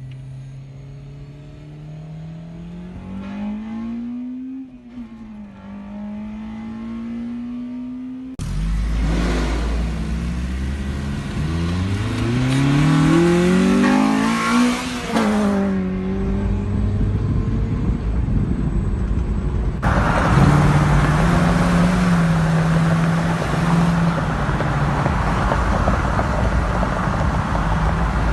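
Car engine accelerating, its pitch climbing and dropping back several times, in a few short clips cut together. The last third is a steadier engine under loud road and wind noise.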